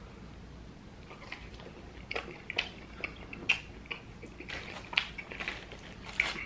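Close-up, open-mouthed chewing of a mouthful of pepperoni pizza with ranch: wet lip-smacking clicks, irregular and growing frequent from about two seconds in.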